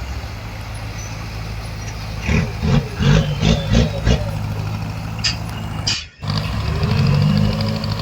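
Diesel engine of heavy earthmoving machinery running steadily, with a quick run of five or six short loud sounds in the middle. The sound cuts out briefly about six seconds in, then the engine picks up again.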